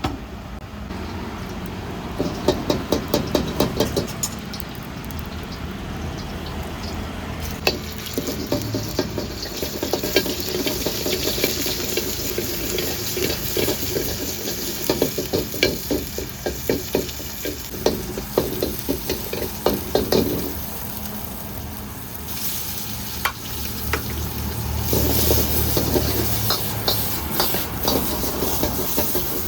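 Stir-frying in a wok: a metal spatula scraping and clanking against the pan in runs of quick, repeated strokes, over the steady sizzle of frying food.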